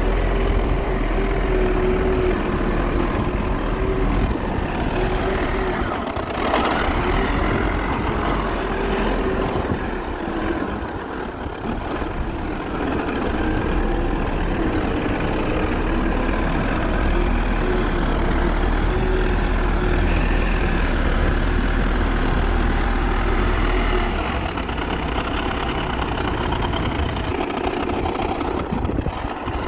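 Caterpillar wheel loader's diesel engine running steadily, with a constant whine over the deep engine sound.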